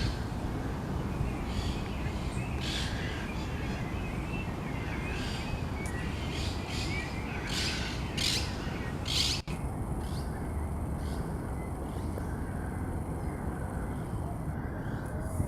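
Birds chirping in short, repeated calls over a steady low background noise, the chirps thinning out after a brief dropout about two thirds of the way through.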